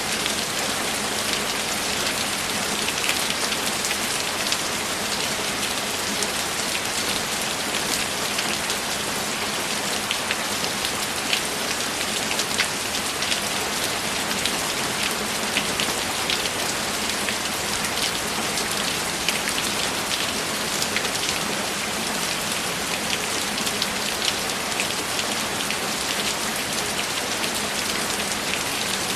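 Steady rain: an even hiss with many scattered sharper drop hits.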